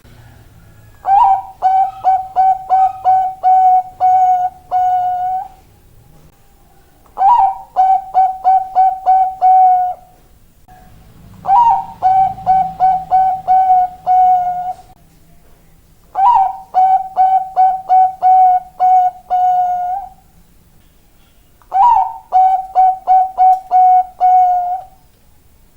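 Bangkok-strain zebra dove (perkutut) cooing: five phrases with short pauses between them, each a rising opening note, then a quick run of short, clipped coos ending on a longer held note.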